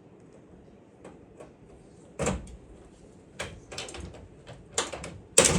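A heavy-duty pop rivet gun being handled, making a few separate sharp metal clicks and knocks, the loudest near the end.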